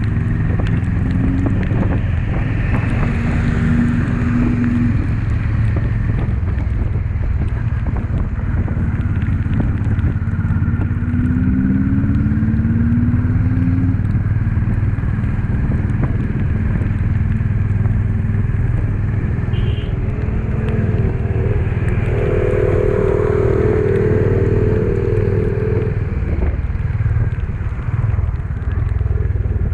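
Honda CB350 motorcycle engine running steadily under way, a continuous low drone. Short rising tones come in briefly about a third of the way through, and a higher steady tone holds for a few seconds about three quarters of the way in.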